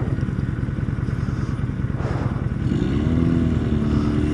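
Kawasaki Vulcan Drifter's V-twin engine running at low road speed. About two and three-quarter seconds in, the revs rise and then hold as the bike pulls away faster.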